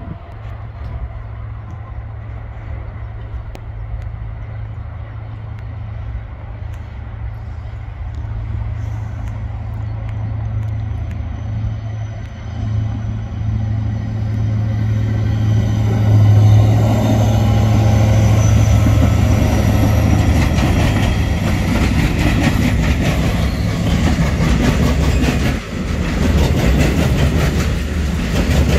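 Vossloh G 1000 BB diesel-hydraulic locomotive running with a steady low engine drone that grows louder as it approaches and is loudest as it passes, about two-thirds of the way in. Loaded tank wagons then roll by, their wheels clicking over the rail joints.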